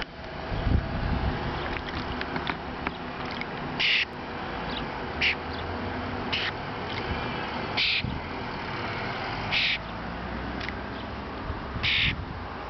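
A bird gives short, harsh squawks again and again, one every second or two, over a steady low background rumble.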